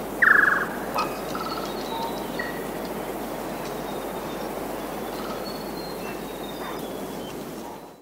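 Outdoor ambience with bird calls: a steady background hiss, a short, loud, rapidly pulsing bird call just after the start, then faint scattered chirps and whistles. The sound fades out at the end.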